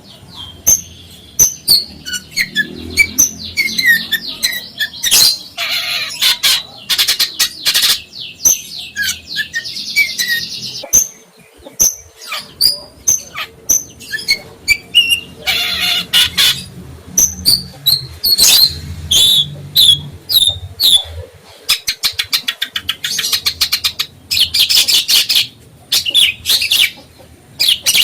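Songbird singing a fast, varied song of short chirps, rapid trills and sharp harsh notes, with brief pauses between phrases.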